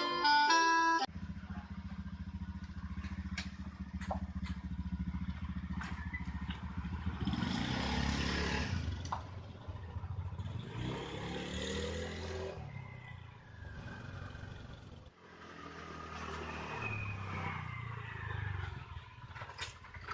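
Motorcycle engine running while being ridden, its pitch rising and falling with the throttle, with two swells of rushing noise partway through. A short bit of guitar music plays in the first second.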